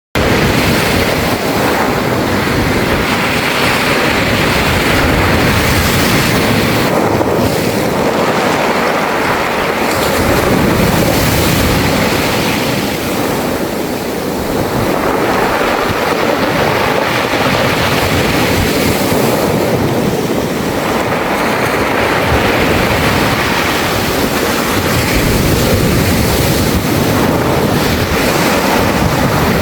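Sea waves washing in and out over a beach of smooth, rounded pebbles (mongdol), the stones rolling in the surf. The surf is loud and continuous, easing briefly about every seven seconds as each wave draws back.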